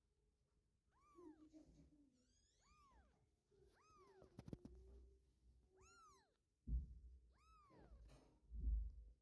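Three-week-old kitten mewing, about six short high calls that each rise and fall in pitch, spaced a second or so apart. Two dull thumps come near the end and are louder than the calls.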